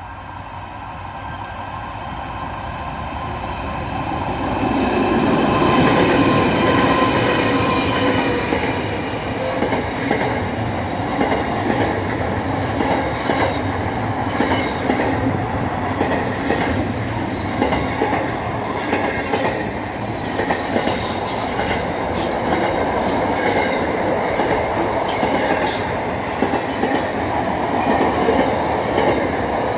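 A train approaching, growing louder over the first six seconds, then passing close by with a long run of wheels clicking over rail joints and some wheel squeal.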